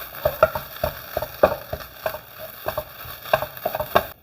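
A kitchen utensil tapping and scraping against a pan in a quick, irregular run, mashing cooked fish into grated carrot.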